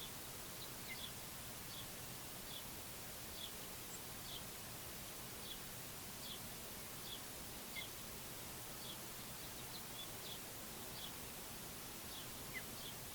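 A small bird repeating a short, high chip note about once a second, with a few lower chirps mixed in, over a steady background hiss.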